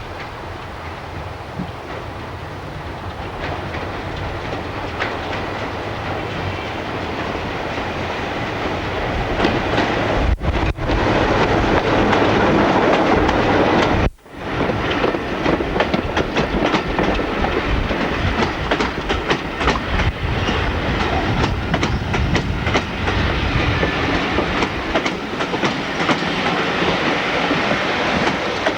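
A train passing close by, its wheels clattering over the rail joints, with the sound building to its loudest about twelve seconds in. The sound cuts out briefly twice, near ten and fourteen seconds in, before the clatter resumes.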